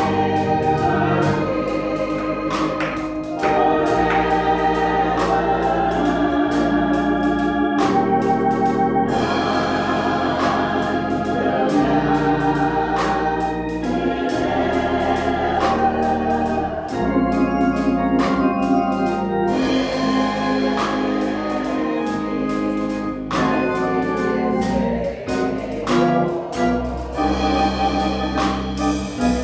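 Hammond-style electric organ playing sustained chords over a low bass, changing chords every second or so.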